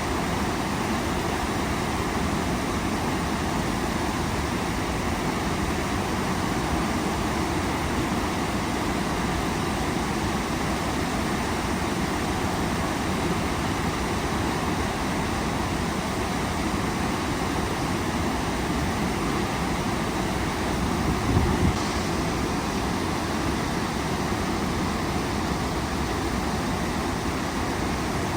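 Waterfall, its water rushing steadily and evenly. About three-quarters of the way through there is a brief low bump.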